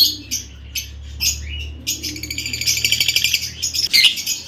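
Lovebirds chattering and chirping, rapid high twittering calls with a louder run of chatter from about two to four seconds in, over a steady low hum that stops near the end.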